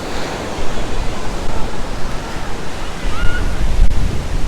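Lake Michigan surf washing steadily onto the shore on a windy day, with wind buffeting the microphone in a low rumble from about three seconds in.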